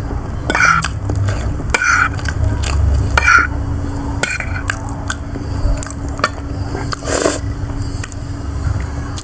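Cutlery scraping and clinking against a dish while eating siomay: a handful of short strokes about once a second in the first half and a louder one near the end, over a steady low hum.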